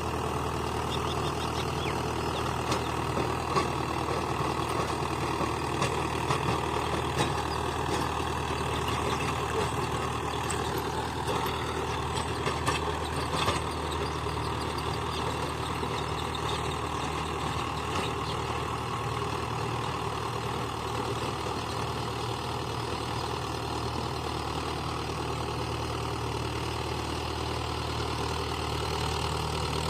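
Mahindra 575 DI tractor's diesel engine running steadily, with scattered short knocks and clicks in the first half.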